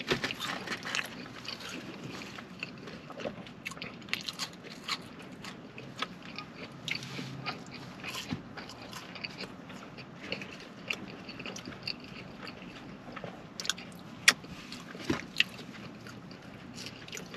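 Close-up chewing and biting of fast food: wet, crackly mouth sounds with many small sharp clicks, a few louder ones near the end.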